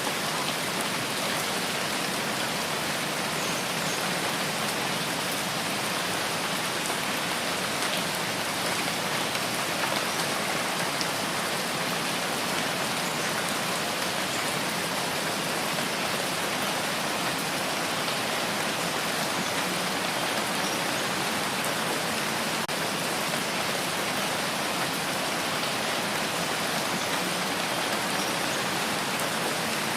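Steady rain falling, an even hiss of many drops with a few faint separate drop ticks, unchanging throughout.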